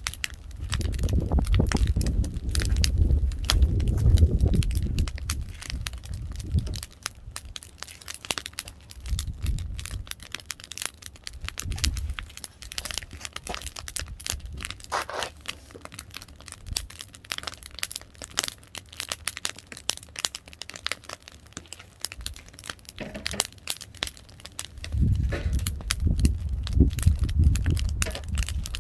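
Firewood burning, crackling and popping with many sharp snaps. A low rumble swells over the first several seconds and again near the end.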